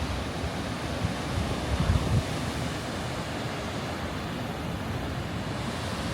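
Strong wind buffeting the microphone over a steady rushing noise on a ship's open deck, with a stronger gust about two seconds in.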